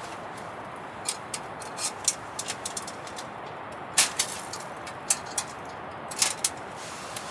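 Burning wood fire crackling: irregular sharp pops and snaps over a steady hiss, the loudest pop about four seconds in.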